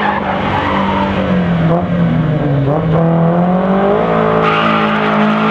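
Car engine held at high revs while its tyres spin and squeal in a burnout; the revs sag about two and a half seconds in, then climb again.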